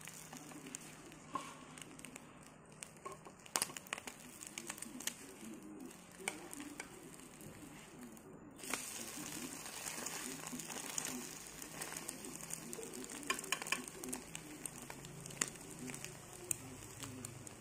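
Egg-coated bread frying in oil in a nonstick pan: steady sizzling scattered with sharp crackling pops, getting louder and hissier about halfway through.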